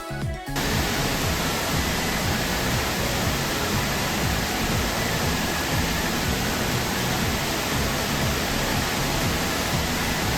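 Steady, even rush of falling water, beginning about half a second in, with background music still playing faintly underneath.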